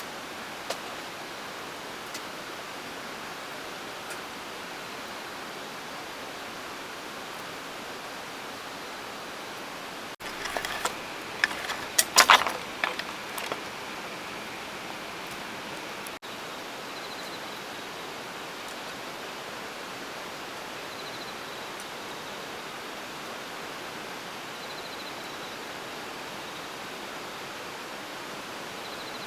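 Steady rushing of water, with a short flurry of sharp crackles and clicks about halfway through. Faint high chirps come every few seconds in the second half.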